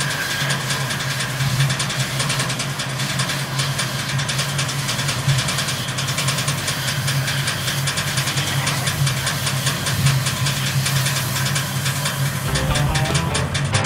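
Running noise of a train heard from the driver's cab as it travels along the line: a steady low hum under a busy, even ticking and rushing noise.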